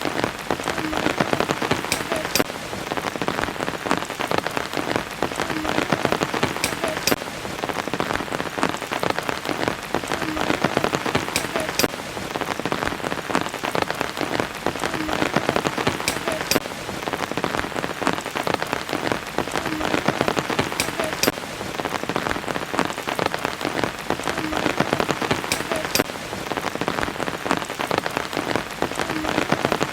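Steady rain falling, with sharp ticks of individual drops through it. The same few-second pattern of ticks recurs roughly every five seconds, as in a looped recording.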